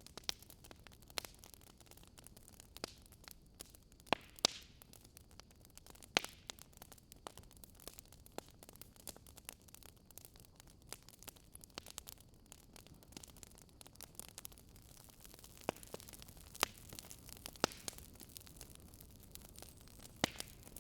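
Wood fire crackling: irregular sharp pops and snaps over a soft hiss, a few pops louder than the rest.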